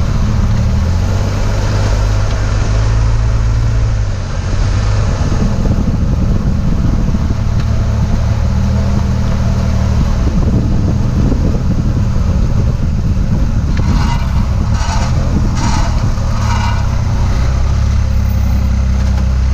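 2004 Chevy Trailblazer being driven, with a steady low engine and road drone, broken about three quarters of the way in by four short harsh bursts: the grinding heard when turning, which was traced to a failing CV axle.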